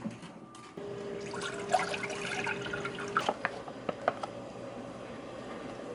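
Water running in a kitchen, as from a tap or being poured, with a steady tone for a couple of seconds and scattered light clicks and clatter.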